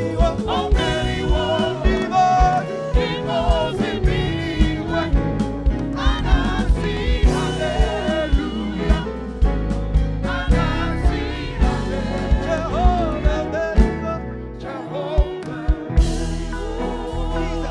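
Gospel song with singing over a band with bass and a steady drum beat.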